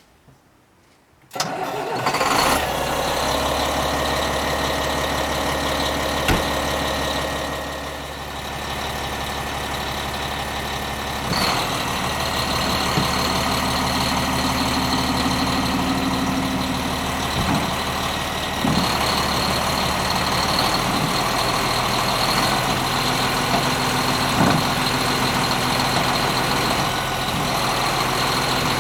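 A Prinoth Leitwolf W snow groomer's MAN diesel engine starts about a second in and settles into a steady run. Its note shifts a few times as the hydraulics load it while the blade and tiller are worked to circulate freshly topped-up hydraulic oil.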